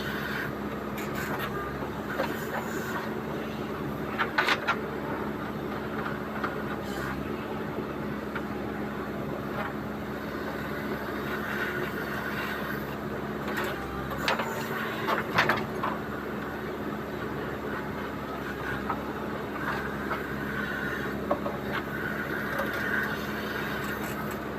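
Diesel engine of a JCB 3DX backhoe loader running steadily while working, with a few sharp knocks.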